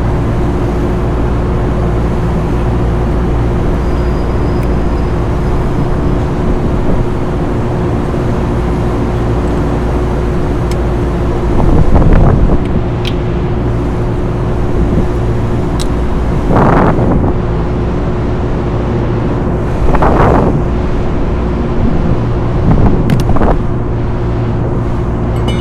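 Steady machine hum with one constant pitched tone, with four short swells of rushing noise in the second half and a few faint clicks.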